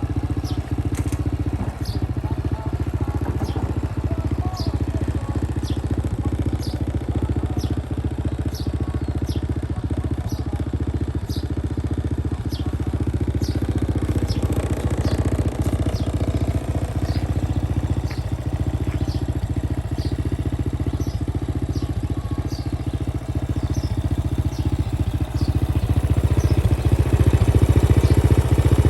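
Honda Dream 100 (C100N) motorcycle's stock single-cylinder four-stroke engine idling steadily with a dry sound, growing louder over the last few seconds.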